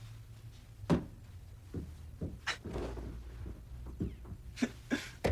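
A few sharp knocks over a low steady hum: one loud knock about a second in, another mid-way, and three quick ones near the end.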